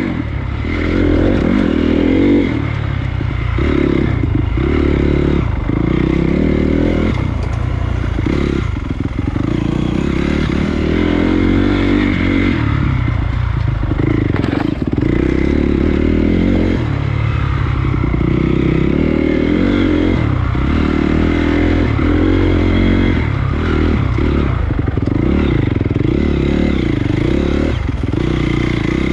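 Honda CRF250 dirt bike's single-cylinder four-stroke engine running under riding load, its pitch rising and falling continually as the throttle is opened and closed every second or two.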